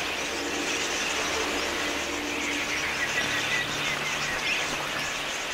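A large flock of wild budgerigars chattering and twittering together: a dense, continuous chorus of many overlapping high chirps.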